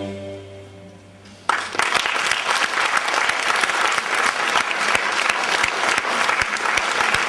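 The final chord of a string orchestra with solo violin dies away. About a second and a half in, audience applause breaks out suddenly and continues steadily.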